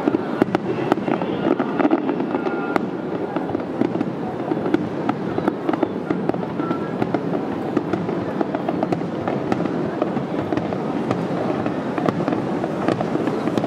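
Fireworks display: a dense, steady crackle of many small bursts and pops going off in quick succession, with no single big bang standing out.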